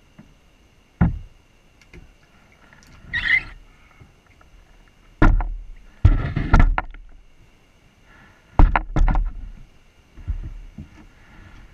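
Scattered knocks and bumps against a kayak hull as gear is handled in the boat, with a short scraping rustle about three seconds in.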